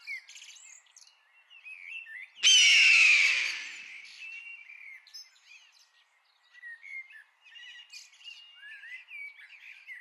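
Small birds chirping and whistling. About two and a half seconds in there is one loud, harsh cry that falls in pitch and fades over about a second and a half.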